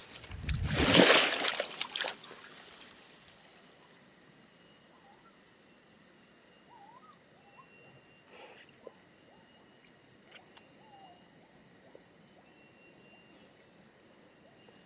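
Stream water running and trickling, swollen after heavy rain, with a loud brief noisy burst about a second in. Steady high insect buzzing and a few faint short chirps sit over the water.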